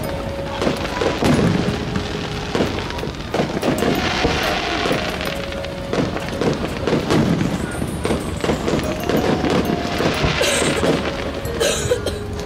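Fireworks going off in quick succession, a string of booms with bursts of crackling near the end, over music with long held melody notes.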